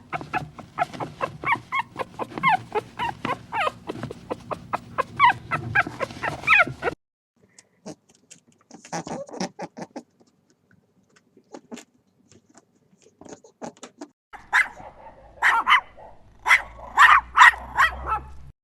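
Dogs barking and yipping: a rapid run of short, high yips for about seven seconds, then a quieter stretch of scattered faint sounds, and a burst of loud barks near the end.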